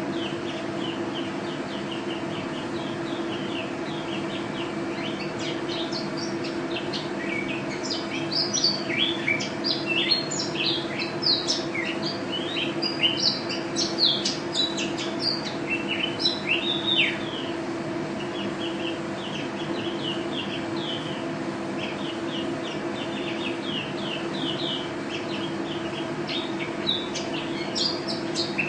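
A white-eye (pleci) singing vigorously: rapid high chirps and twittering trills, thickest from about eight to seventeen seconds in and again near the end. A steady low hum runs underneath.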